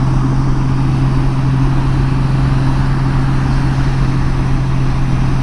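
2018 Honda Gold Wing's flat-six engine running at a steady cruise, a constant low thrum, under even wind and road noise.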